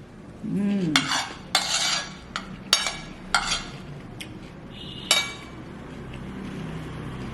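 Metal cutlery clinking and scraping against dishes and bowls at a meal: about five sharp, ringing clinks in the first five seconds, then only faint handling.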